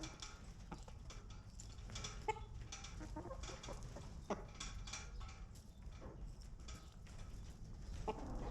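Domestic chickens clucking now and then, a few short calls among many small clicks and rustles.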